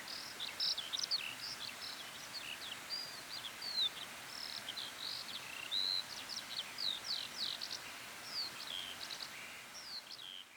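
Dawn chorus of forest birds: several songbirds singing at once, a dense run of quick high chirps and short whistled glides, over a faint hiss.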